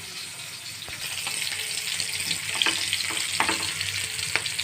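Semolina-coated pomfret shallow-frying in oil in a frying pan: steady sizzling that gets louder about a second in, with scattered crackles and pops.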